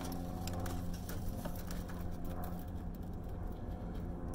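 Scrap copper wire being handled and pulled from a car trunk, a few faint light clicks over a steady low hum.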